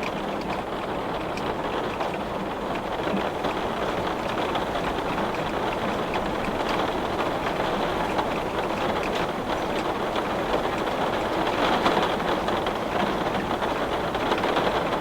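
Heavy rain beating on a glass pane: a dense, steady patter of drops, with a brief swell in intensity about twelve seconds in.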